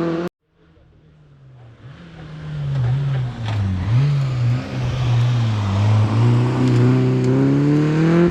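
Rally car approaching at speed. Its engine note grows louder over the first few seconds, dips briefly as the driver lifts or changes gear, then climbs steadily under hard acceleration.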